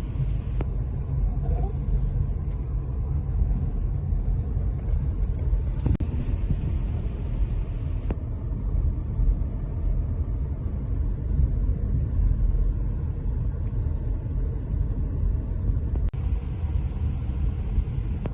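Steady low road rumble inside a moving car, with a couple of faint clicks.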